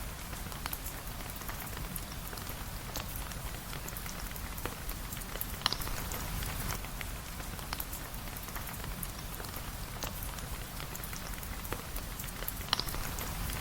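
Steady rain with many small drops ticking, and a couple of sharper pops about six seconds in and near the end.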